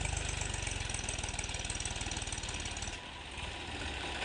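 Tractor diesel engine running with a rapid, even firing beat, dipping briefly about three seconds in.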